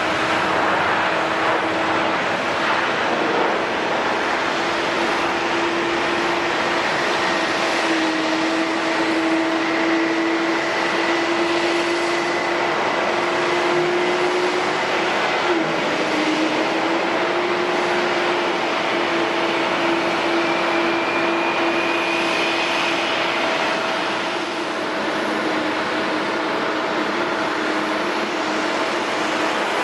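Jet airliner engines running steadily: a constant roar with a steady whine on top that wavers slightly in pitch.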